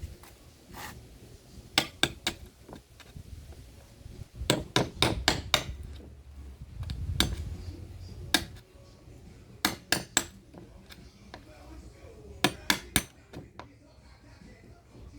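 Hammer blows in short runs of sharp strikes, a few at a time with pauses between, typical of nailing while building a homemade wooden speaker box.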